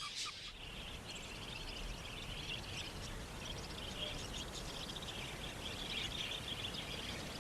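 Budgerigars chattering: a steady, dense twitter of many small high chirps.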